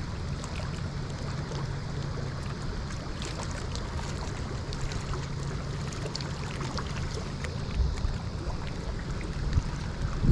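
Steady outdoor river noise of flowing water, with a low steady hum underneath and a few faint light ticks.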